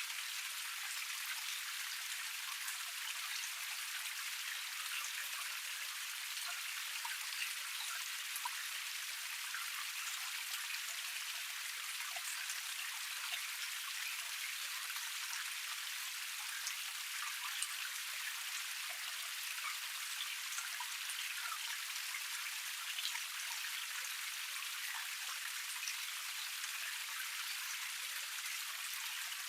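Water splashing steadily down a small forest cascade, a constant hiss dotted with many small droplet splashes.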